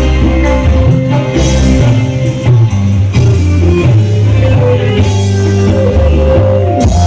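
Loud music played through a big parade sound system, with heavy, booming bass under pitched instruments.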